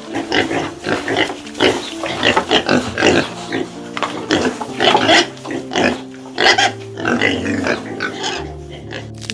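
A quick run of short animal calls, several a second, over gentle background music. The calls stop near the end, leaving only the music.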